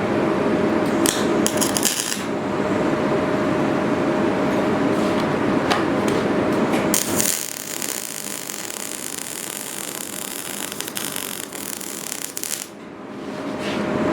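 Workshop power tool running: a steady noise with a hum for about seven seconds, then quieter, rougher rubbing, dipping briefly near the end before the louder sound comes back.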